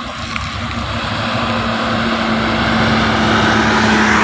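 Heavy diesel truck engine pulling hard up a steep climb: a steady drone that grows louder through the first few seconds as the truck draws closer.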